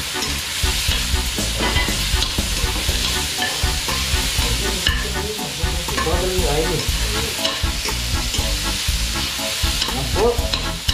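Garlic and onion sizzling in hot oil in a wok while a spatula stirs them, scraping and clicking against the pan.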